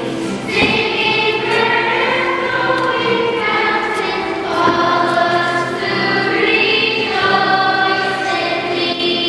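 Choir singing a hymn, the voices holding long notes and moving together from note to note.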